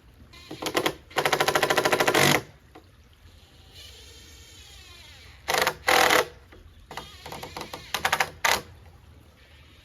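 Cordless impact driver running in four short bursts of rapid hammering, the longest about a second, as it drives screws into timber.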